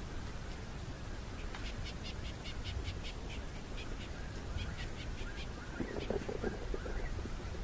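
Birds chirping: two quick runs of short high chirps, about five a second, followed about six seconds in by a lower, rougher call, over a steady low background rumble.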